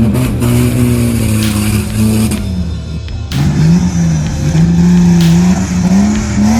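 Off-road 4x4 engine revving under load, its pitch rising and falling. The revs drop briefly about three seconds in, then climb again and hold high.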